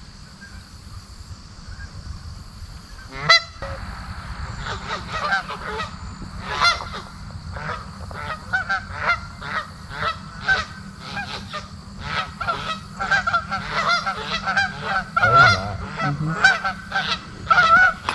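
Geese honking, the calls sparse at first and then coming thicker and overlapping from about four seconds in, with a single sharp knock about three seconds in.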